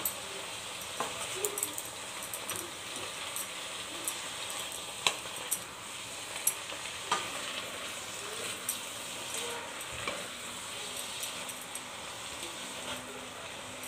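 Shredded cabbage and tomato sizzling as they stir-fry in a pan, with a steady frying hiss. A spatula stirs them, scraping and knocking against the pan now and then, most sharply about five seconds in.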